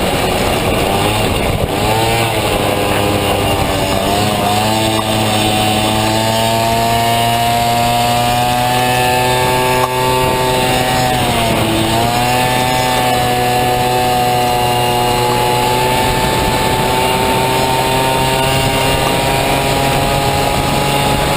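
Honda Dio two-stroke single-cylinder scooter engine in a Honda Motocompo running at high revs under racing load. Its pitch dips briefly three times, about two seconds in, around four seconds and near the middle, as the throttle is eased, then climbs back and holds.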